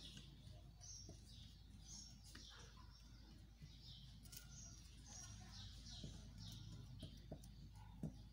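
Near silence, with faint short chirps repeating about twice a second in the background, like a small bird calling, and one soft tap near the end.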